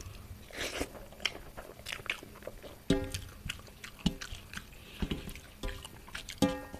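Close-miked chewing and biting of a mouthful of food, with irregular wet mouth clicks, over background music with a few short pitched notes.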